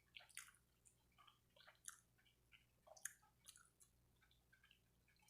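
A person chewing food close to the microphone: soft, irregular mouth clicks, faint throughout.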